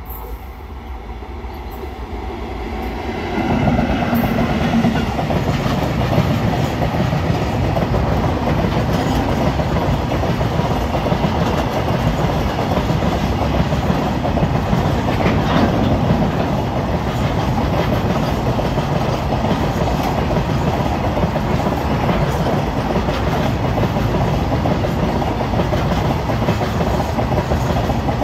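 Freight train hauled by an electric locomotive approaching and passing close by at speed. The noise swells, jumps sharply a few seconds in as the train reaches the spot, then holds as the steady rolling noise and clickety-clack of the open box wagons' wheels on the rails.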